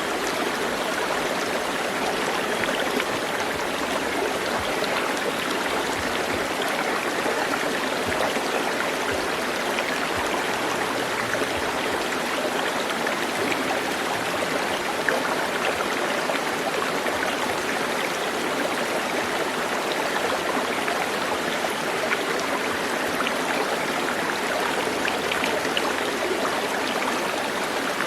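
Stream water running steadily, an even rushing and trickling.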